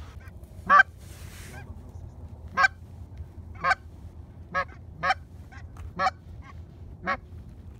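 Repeated single goose honks, each short and sharp, about seven loud ones roughly a second apart with fainter honks between them, over a steady low wind rumble.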